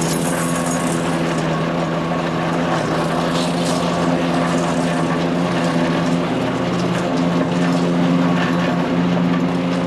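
PowerKing chipper shredder's Kohler CH440 14 HP single-cylinder engine running steadily at speed, with a brief waver in pitch about six and a half seconds in.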